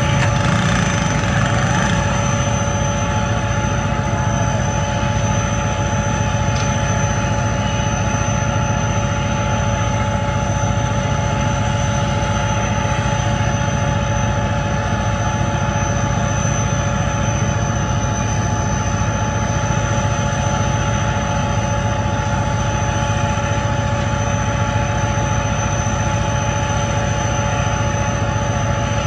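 HGMU diesel-electric locomotive idling with the train standing at a station stop: a steady low engine drone with several constant high-pitched tones over it.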